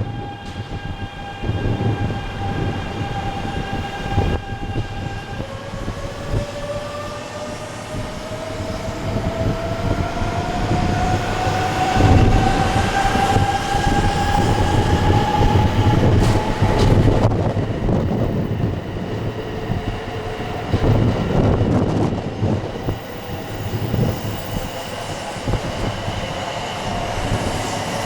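Shinkansen train pulling out, the whine of its electric traction motors rising steadily in pitch as it accelerates, over a rumble of wheels and wind noise on the microphone.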